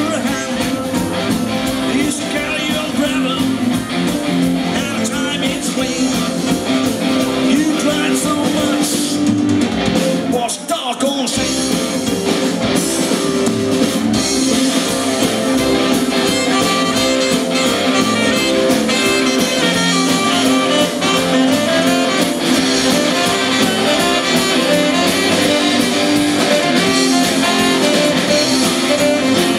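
Live rock band playing, guitar to the fore, with a short drop in the music about ten seconds in.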